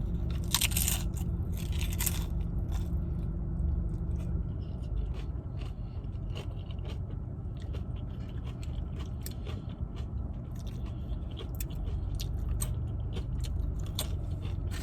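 Close-up eating sounds: chewing and crunching of food, with many short clicks and smacks scattered throughout.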